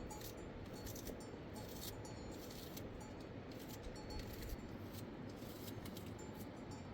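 Faint, irregular light clinks and ticks over a steady background hiss.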